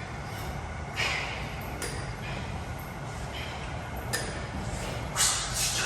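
Metal gym weights clinking and clanking a few times at uneven intervals, with the loudest knocks coming together near the end, over a steady low rumble of room noise.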